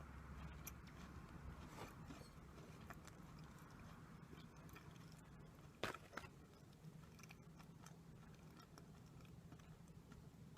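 A person chewing quietly, with faint scattered crisp sounds and one sharper crunch about six seconds in.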